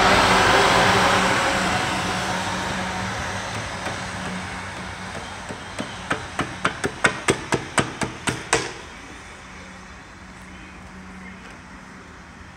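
South Western Railway Desiro electric multiple unit running close past and fading away. About six seconds in comes a quick run of about a dozen sharp clicks, some four a second, lasting about three seconds.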